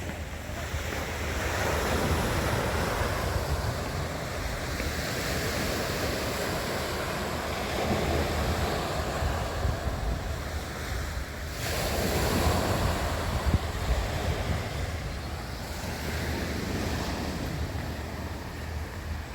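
Black Sea waves washing in, swelling and easing every few seconds, with wind buffeting the microphone as a low rumble.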